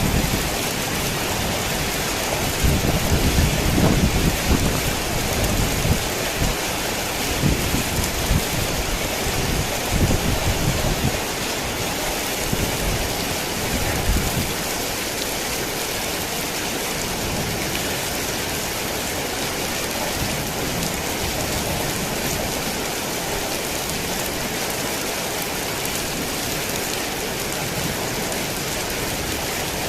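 Heavy rain falling in a steady, dense hiss. Low rumbling swells under it in the first half, then dies away about halfway through.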